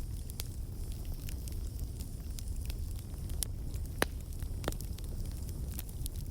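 Fire crackling: irregular sharp pops and snaps over a steady low rumble, the loudest pop about four seconds in.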